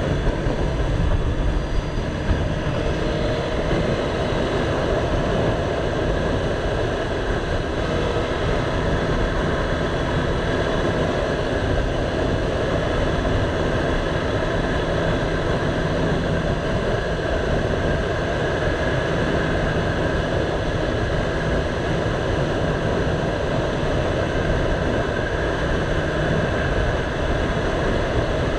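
A motorcycle under way: steady wind rush over the camera's microphone with the engine running beneath it.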